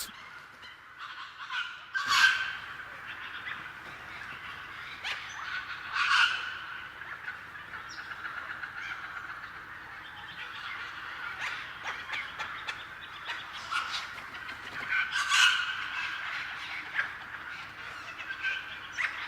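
Puppyoo WP615 robotic vacuum cleaner running: a steady whine, swelling louder three times, about two, six and fifteen seconds in.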